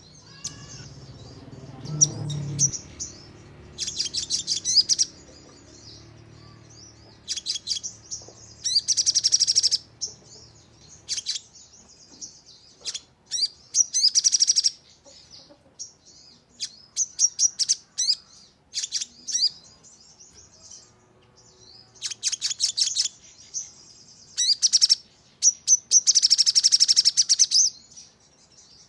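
Sogon (crimson sunbird) singing in repeated high-pitched bursts of rapid, sharp ticking notes, each burst lasting about a second, with short pauses between them. This is the fast 'nembak' song used as a lure to provoke other sogon into singing.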